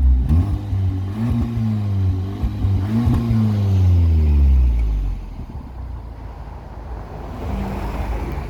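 VW Tiguan engine revved a few times through its aftermarket valve-controlled exhaust set to quiet mode, then dropping back to a steady idle about five seconds in.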